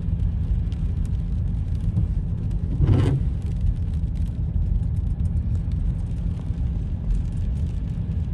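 Steady low rumble of a car driving, heard from inside the cabin, with one brief thump about three seconds in.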